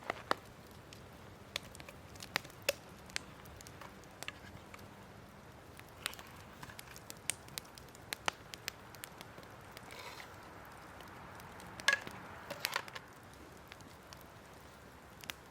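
Wood campfire crackling, with scattered sharp pops and a quick cluster of louder pops about twelve seconds in.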